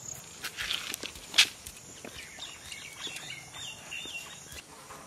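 Birds chirping in short wavering calls, with a few soft rustles early on and one sharp click about a second and a half in.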